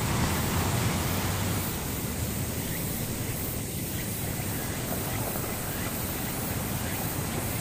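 Steady rushing noise with a low hum underneath, even throughout, slightly louder in the first second or so.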